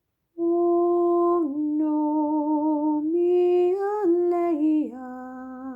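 A single voice singing a slow, wordless melody in long held notes, starting about half a second in and stepping between pitches; the last note, lower and softer, wavers.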